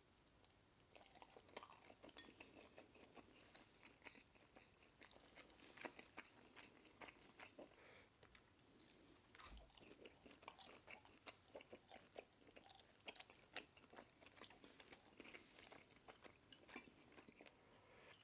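Faint close-up chewing of Indomie Mi Goreng stir-fried instant noodles, with many small, irregular wet mouth clicks starting about a second in.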